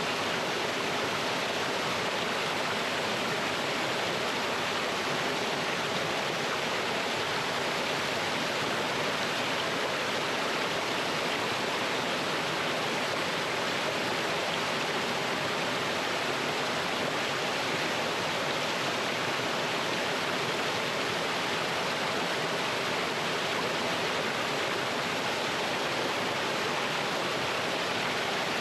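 Small mountain stream running over rocks, a steady rushing splash of water with no breaks.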